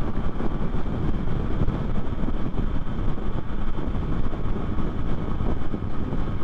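Wind rushing and buffeting on the camera microphone as a 2024 Yamaha MT-09 motorcycle rides at highway speed, with the bike's engine and road noise mixed in as a steady, loud rumble.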